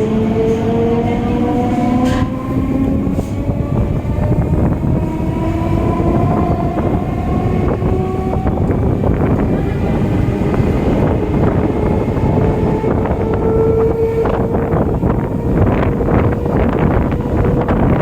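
EMU local train heard from on board: the electric traction motors whine, rising slowly in pitch as the train gathers speed, over a steady rumble of wheels on track. From about fourteen seconds in, a run of quick clicks and knocks comes through from the wheels.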